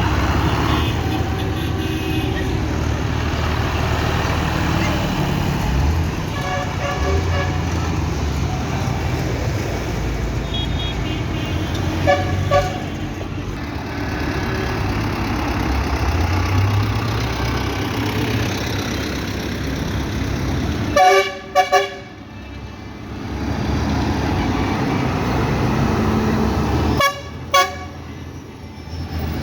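Tractor engines running steadily as a convoy goes by, with horns tooting in short blasts: a pair about twelve seconds in, a cluster of loud toots later on, and two more near the end.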